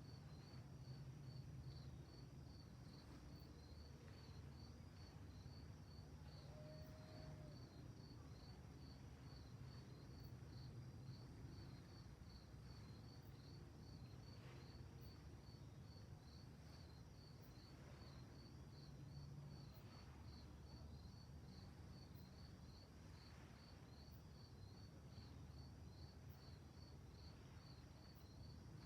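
Faint crickets chirping in a fast, even pulse, over a low steady rumble.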